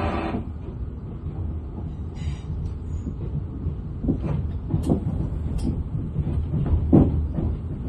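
Interior of a Class 444 Desiro electric train rolling on the approach to its terminus. A steady low running rumble, with irregular knocks and clunks from the wheels over the track that come more often from about four seconds in. The sharpest knock is about seven seconds in.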